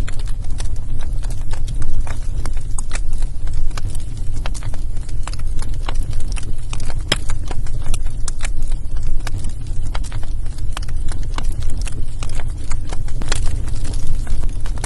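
Wood fire burning in a fireplace, crackling with frequent irregular pops over a steady low rumble.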